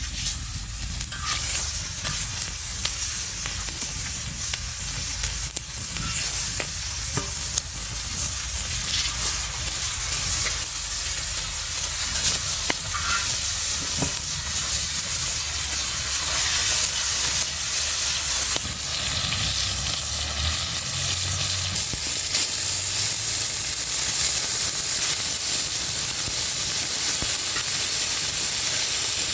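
Food frying on the hot iron griddle plate of a wood-fired stove, a steady sizzle with a few light clicks scattered through it.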